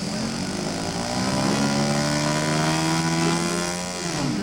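Engines of a radio-controlled scale model aircraft running steadily, their pitch creeping up slightly and then dropping near the end.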